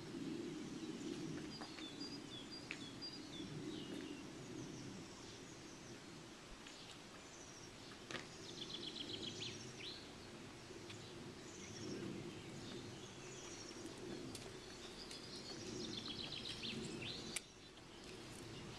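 Songbirds singing short, high trilled phrases every few seconds over a faint, steady outdoor background noise.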